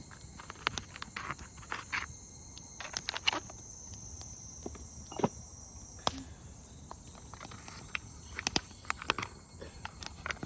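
Irregular light clicks and knocks, several of them sharp, over steady high-pitched insect chirring.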